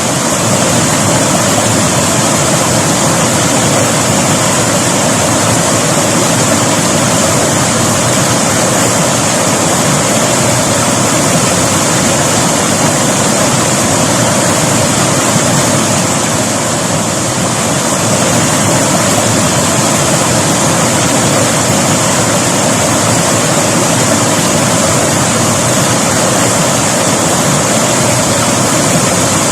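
River water flowing, a loud, steady rushing noise with no breaks.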